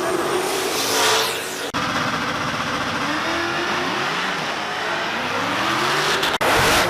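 Loud V8 car engines revving and accelerating hard, typical of drag racing, the pitch climbing in several rising sweeps. The sound breaks off abruptly for an instant about a second and a half in and again near the end.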